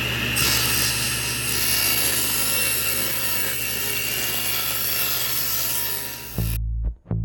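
A handheld electric power tool running steadily as it works wood, with a faint high whine over its motor noise. It stops near the end, and plucked bass-guitar music begins.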